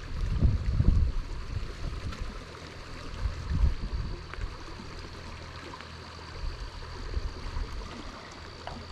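Creek water flowing steadily, with low rumbling knocks on the microphone in the first second or so.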